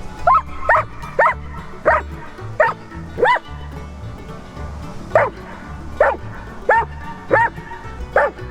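A dog barking repeatedly, about six barks in quick succession, a pause of nearly two seconds, then five more: a guard dog warning off a person approaching the object it has been set to guard. Background music plays underneath.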